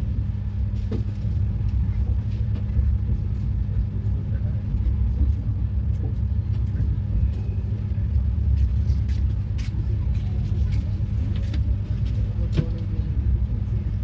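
Passenger train running, heard from on board: a steady low rumble with scattered clicks and knocks.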